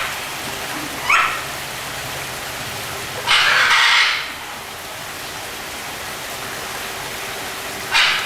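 Harsh bird squawks: a short call about a second in, a longer, louder one at three to four seconds, and another near the end, over a steady background hiss.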